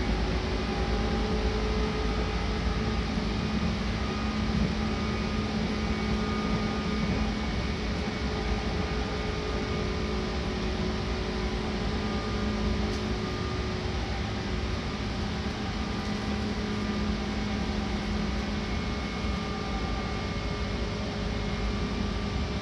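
Seibu Red Arrow limited express train running, heard from inside the passenger car: a steady rumble of the moving train with a few faint held tones.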